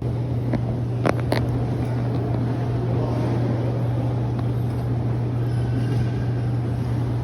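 Steady low mechanical hum with an even rushing noise, starting abruptly, with a few sharp clicks about a second in.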